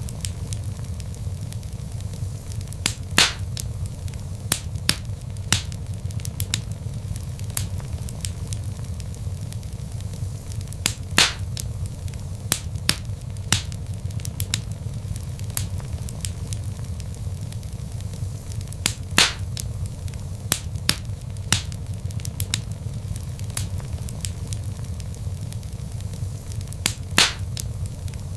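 Wood log fire crackling over a steady low rumble of flame, with dense small sharp crackles and a louder pop about every eight seconds.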